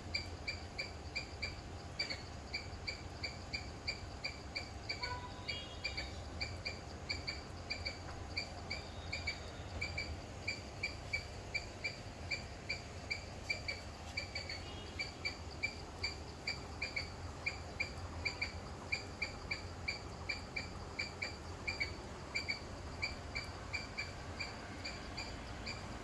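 A bird calling over and over, one short high chirp at a steady pitch, about three a second and very regular, with a few other faint bird calls about five seconds in.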